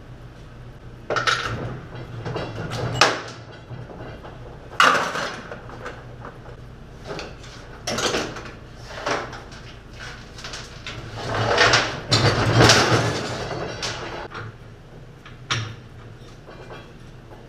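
Irregular metal clanks and knocks of engine parts and hand tools being handled during a small-block Chevy 350 teardown, with a longer clattering run about two-thirds of the way in, over a steady low hum.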